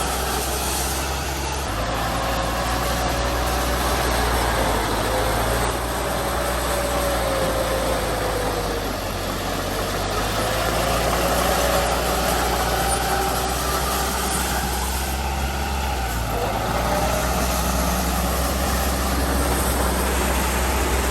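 Heavy diesel engine of earthmoving machinery running steadily, with a faint whine that rises and falls in pitch.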